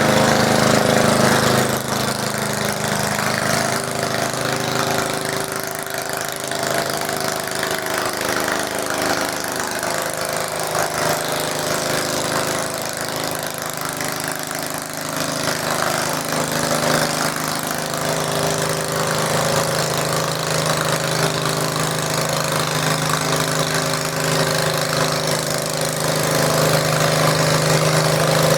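Garden tractor engine running steadily, easing off in pitch and loudness about two seconds in and building again near the end.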